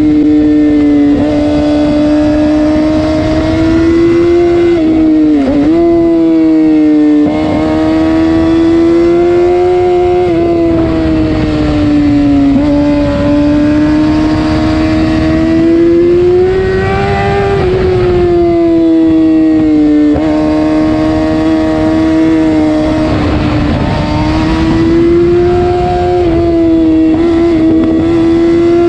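Yamaha R6 sport bike with a full aftermarket exhaust system running hard while ridden, recorded onboard. The engine note holds high and rises and falls slightly, with a quick drop and recovery about five seconds in and several brief dips in pitch after that.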